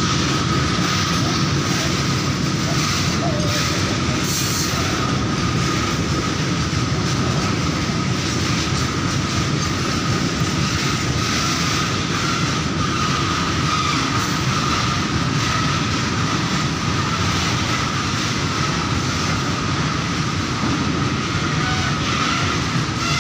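A long freight train of rail tank wagons rolling steadily past, with steel wheels running on the rails and a thin, steady high squeal running through the rolling noise.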